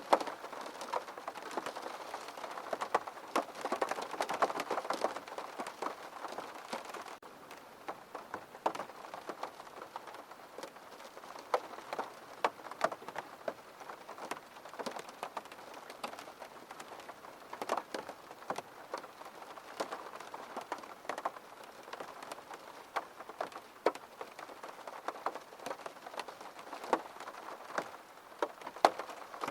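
Steady rain with many individual drops tapping irregularly on a hard surface.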